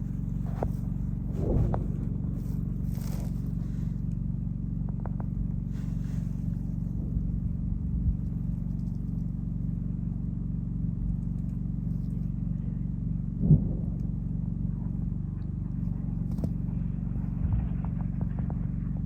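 Steady low rumble with a few dull, distant bangs from a firefight. The loudest bang comes about 13 seconds in.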